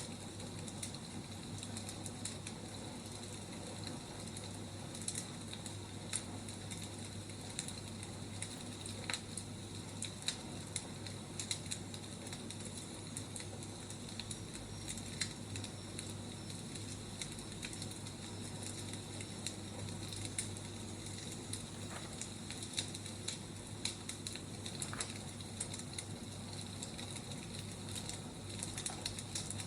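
Burning firewood crackling, with a steady hiss and frequent sharp pops at irregular times.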